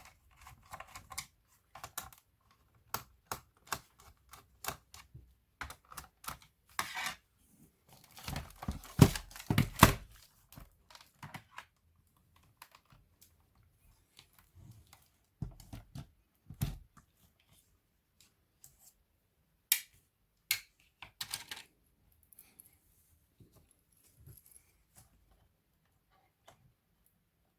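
Scattered clicks and taps of plastic laptop casing parts and small screws being handled during disassembly, with a louder, denser clatter from about eight to ten seconds in.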